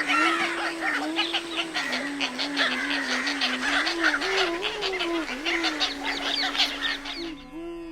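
Dense chatter of many birds calling over a slow, gliding bansuri flute melody. The bird calls stop abruptly near the end, leaving the flute alone.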